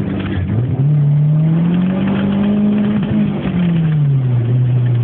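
Turbocharged 1.7-litre four-cylinder from a Volvo 480, swapped into a Renault 5 GT Turbo, heard from inside the cabin under hard acceleration. The revs dip briefly about half a second in, as at a gear change, then climb steadily for about two seconds before falling away near the end and settling to a steady lower note.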